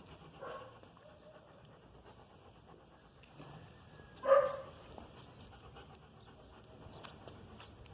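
A dog, with a soft short call about half a second in and one loud, short bark about four seconds in.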